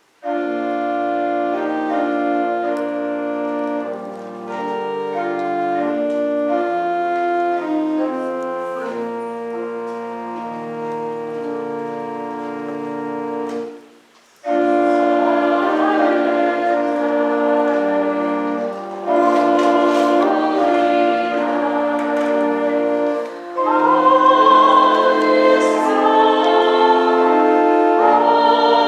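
Church organ playing a hymn in sustained chords. It stops briefly about halfway, then restarts with a choir and congregation singing along.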